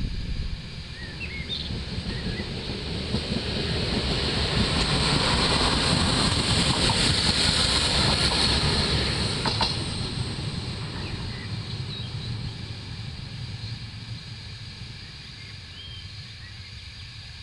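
Alstom Coradia LINT 41 diesel multiple unit passing by: its engine and wheel noise builds as it approaches, is loudest about five to nine seconds in with a few clicks of the wheels on the rails, then fades as the train moves away.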